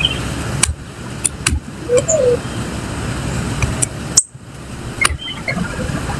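A few short bird chirps over a steady low rumble, with several sharp clicks scattered through.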